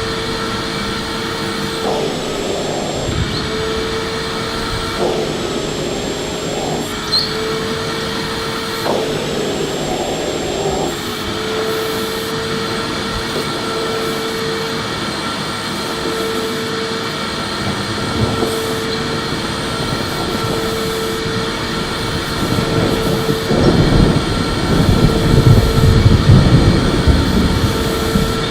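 Electric vacuum cleaner running continuously, a steady motor whine over the rush of air. It grows louder, with more low rumble, in the last few seconds.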